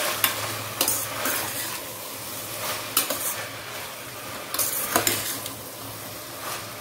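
Chopped vegetables sizzling steadily in a pressure cooker while a spoon stirs them, scraping and knocking against the metal pot several times.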